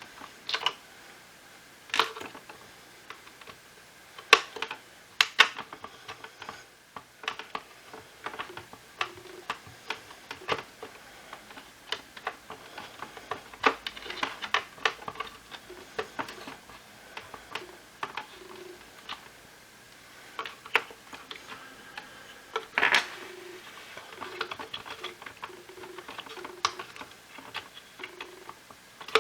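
Irregular clicks, taps and knocks of hard plastic parts being handled and worked apart during the disassembly of a Shark cordless stick vacuum, with a few sharper knocks standing out.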